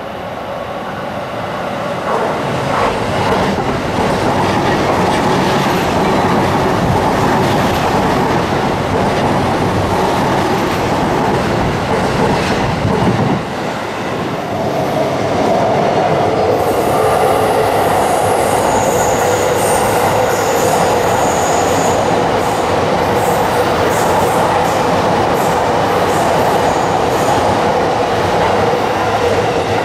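JR East E233-1000 series electric commuter trains running through a station. One train rolls in with its wheels rumbling on the rails. After a break, another runs past close by, with a high wheel squeal for a few seconds about halfway through and the wheels clacking over rail joints.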